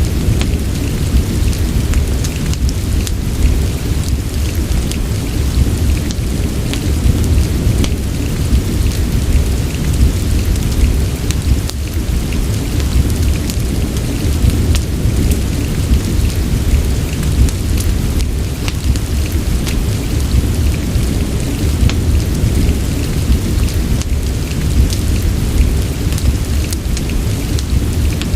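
Rain and a crackling fireplace mixed as a steady ambience: a deep, constant rumble under many small, sharp crackles and ticks.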